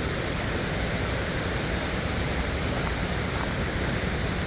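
Steady roar of a small waterfall and rushing stream water tumbling over rocks, an even unbroken rush.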